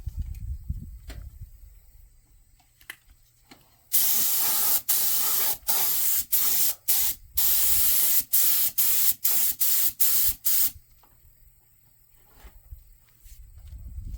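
Paint being sprayed in about a dozen short hissing bursts, starting about four seconds in and stopping some seven seconds later.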